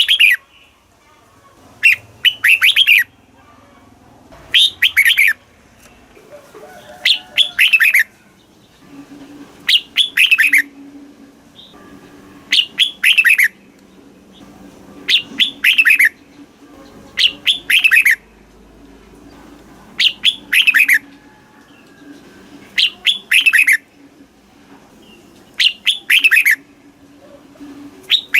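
Red-whiskered bulbul singing: short, bright phrases of a few quick notes that sweep down in pitch, repeated about every two and a half seconds.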